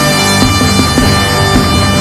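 A horn blast, one steady buzzy note held throughout, sounding over live band music with a regular drum beat.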